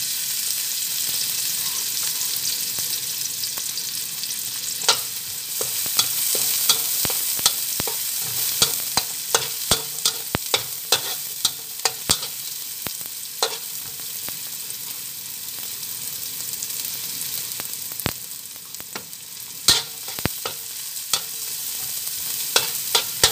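Chopped onion and garlic sizzling in hot oil in a wok, with a steady hiss, while a spatula stirs them and knocks and scrapes against the pan in many sharp clicks.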